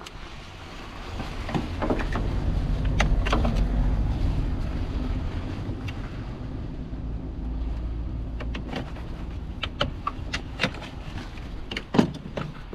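Low rumble of a passing vehicle that swells over the first few seconds and fades away, with scattered sharp clicks and knocks of work on the car.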